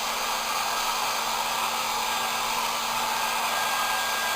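Electric dryer blowing air over a dog's wet coat: a steady rush of air with a faint steady whine.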